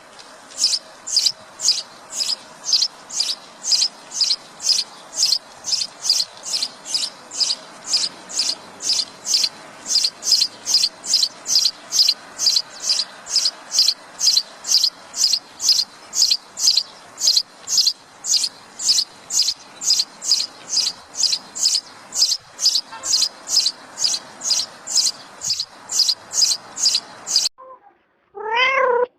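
A short, high chirp repeated at an even pace of about two a second over a faint hiss. Near the end the chirping stops and a cat starts meowing.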